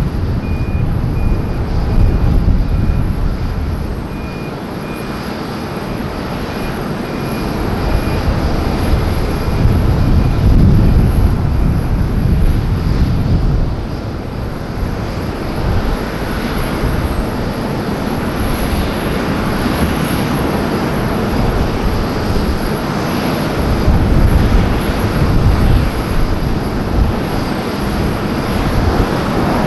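Jet airliner engines on a landing approach: a continuous rumble that swells and fades, with a faint broken high whine in the first third.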